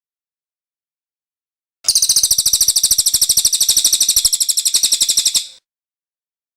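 Cililin songbird singing a fast, even trill of rapidly repeated high notes, starting about two seconds in and lasting about three and a half seconds, then stopping abruptly.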